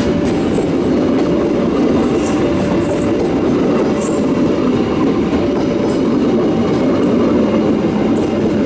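Passenger train rolling past, a steady loud rumble of steel wheels on the rails with short high squeaks now and then.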